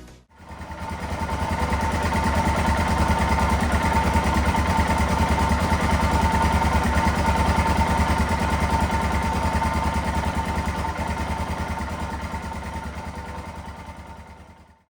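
Suzuki DR650 single-cylinder engine, rebuilt with a 790 big bore kit and a new exhaust, idling with a rapid, even beat. It fades in over the first couple of seconds and fades out near the end.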